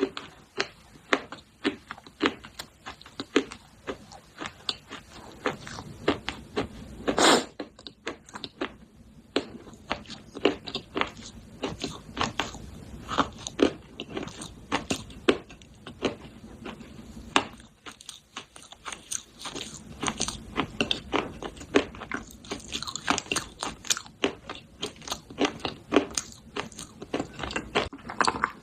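Close-up biting and chewing of baked clay pot pieces: a dense run of sharp, crisp crunches, one especially loud about seven seconds in.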